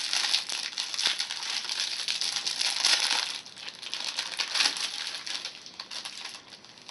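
Crinkling and rustling of a Twinkie's plastic snack wrapper as it is handled and opened, easing off near the end.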